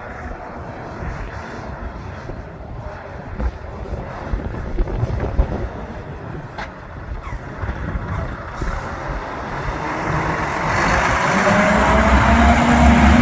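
Heavy truck's diesel engine approaching and getting much louder over the last few seconds, with a slowly rising whine as it pulls past.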